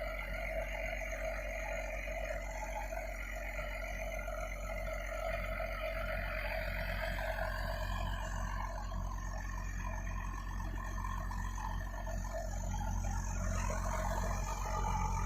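IVECO 420 6x6 truck's diesel engine running steadily under load while hauling a trailer, getting a little louder near the end.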